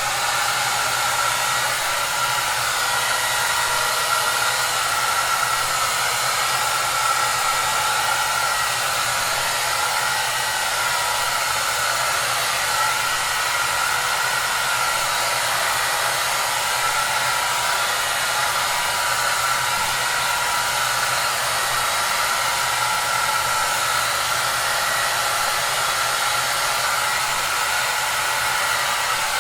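Electric hair dryer running steadily: an even rushing of air with a slight whine in it and a faint low motor hum underneath.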